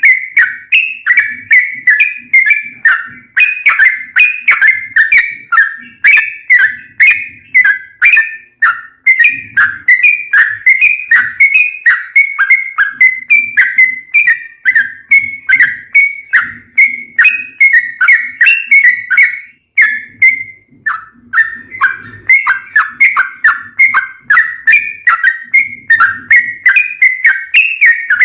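Yellow-vented bulbul (trucukan) singing a fast, unbroken string of short bubbly chirps, about three or four a second, with a brief pause about twenty seconds in.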